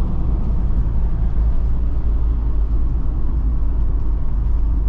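Steady low rumble of engine and road noise inside the cab of an Auto-Trail motorhome being driven along a country road.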